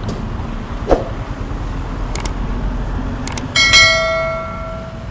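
A sudden ringing strike, like struck metal, that rings and fades over about a second and a half, after a knock and a few sharp clicks, over a steady low rumble.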